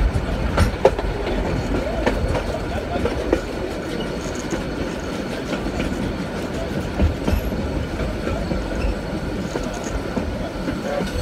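Narrow-gauge passenger train carriages rolling along the track: a steady rumble with occasional sharp knocks from the wheels and couplings.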